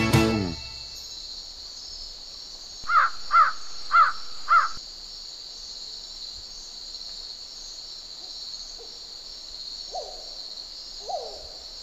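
A bird cawing four times in quick succession, followed near the end by three fainter, lower calls, over a steady high hiss.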